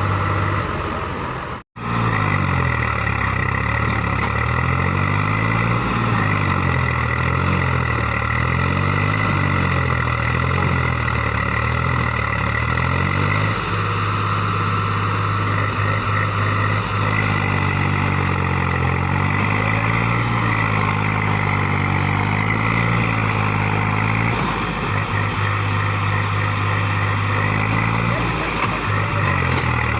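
Tractor diesel engine running steadily, with a low hum that slowly wavers. The sound cuts out for an instant about two seconds in.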